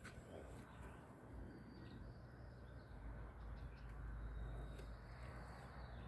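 Quiet garden ambience: a few faint, short bird chirps over a low rumble.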